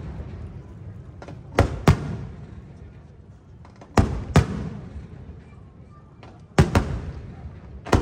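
Aerial firework shells bursting in pairs of sharp bangs about a third of a second apart, a pair every two to three seconds. Each bang is followed by a fading, echoing rumble.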